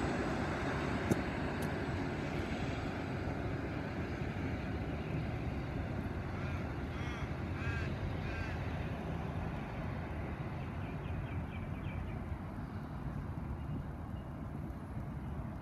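Low rumble of a diesel passenger train pulling away down the line, slowly fading as it recedes, with a short sharp click about a second in. Midway through, a crow-like bird caws about four times.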